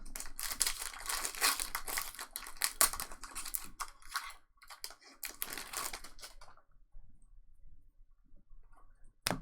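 Plastic wrapper of a trading card pack being torn open and crinkled, a dense crackling for about six and a half seconds, then fainter handling and one sharp click near the end.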